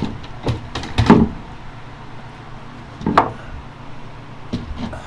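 A few wooden knocks and clunks as a wall-mounted cat shelf is taken down, the loudest about a second in, over a steady low hum.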